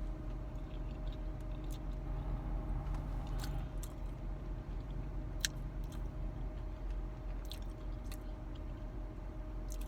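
A person chewing and biting food close to the microphone, with scattered faint crunchy clicks, over a steady low hum.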